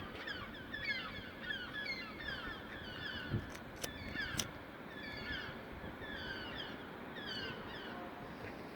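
Birds chirping: many short falling chirps overlapping, with a few sharp clicks about midway.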